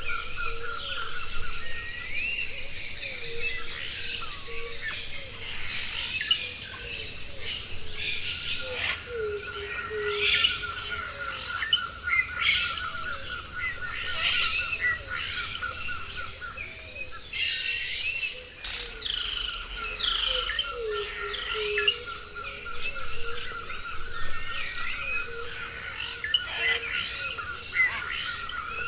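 Many birds chirping and calling with quick up-and-down whistled notes and a repeated low call. A steady pulsing trill, typical of an insect, runs under them and drops out twice.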